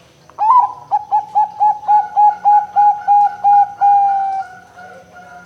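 Zebra dove (perkutut) singing: an opening coo, then a quick run of about eleven short, evenly spaced coos at close to four a second, ending in one longer drawn-out note that fades.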